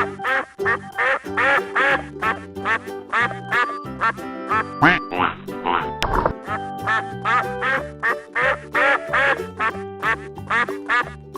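Ducks quacking in a quick series of short calls over background music.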